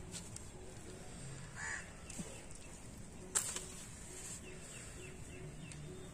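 Faint outdoor background with a single caw-like bird call about a second and a half in and one sharp click past the middle, with faint small bird chirps later on.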